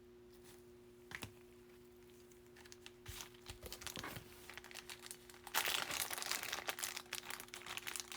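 Plastic crinkling and rustling as trading cards are slipped into card sleeves and top loaders. It starts a few seconds in and grows louder past the halfway point, over a faint steady hum.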